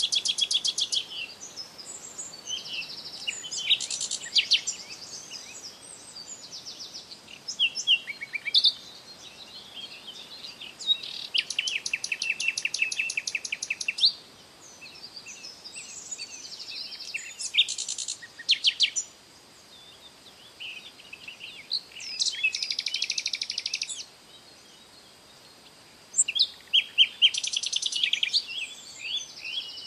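Songbirds singing: repeated phrases of rapid high trills and chirps, each a second or two long, coming every few seconds, with a faint steady high hiss beneath.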